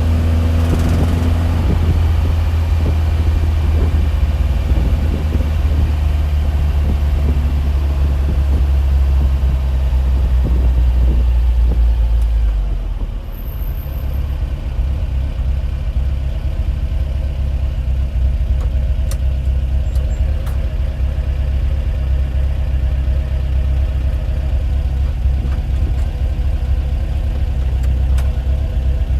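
A steady, loud low mechanical rumble of a running engine; about thirteen seconds in it drops a little and settles into a steadier hum with a faint steady tone.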